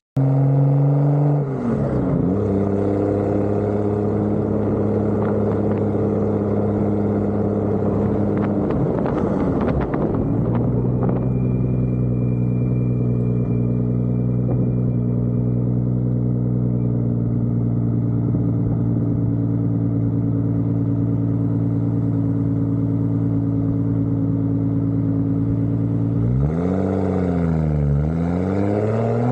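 Car engine running under way, a steady engine note whose pitch drops sharply twice, about two seconds and ten seconds in, as with gear changes. Near the end the note dips and climbs again twice as the car accelerates.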